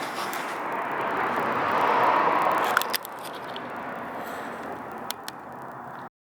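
Steady background noise with scattered small clicks and knocks, without a running engine's tone. It drops in level about three seconds in and cuts off abruptly near the end.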